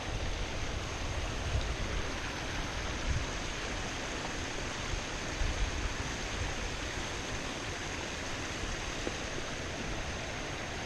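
Flowing creek water: a steady rushing hiss with an uneven low rumble beneath it.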